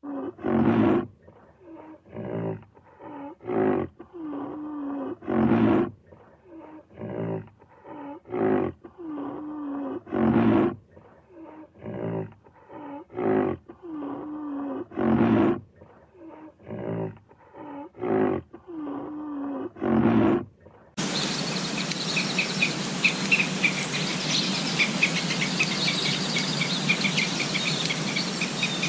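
An animal calling over and over, about one call a second, some calls longer and louder than others. About twenty seconds in it cuts suddenly to a steady outdoor background with rapid high chirping.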